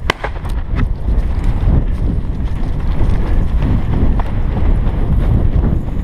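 Running footsteps through field cover, heavy thumps in a rough rhythm, with the body-worn camera jostling and wind rumbling on the microphone.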